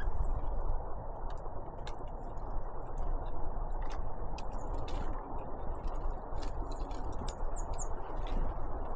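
Great tits and blue tits pecking at seed: irregular sharp ticks and taps of beaks, several a second, with two brief high chirps a little before the end, over a steady low rumble.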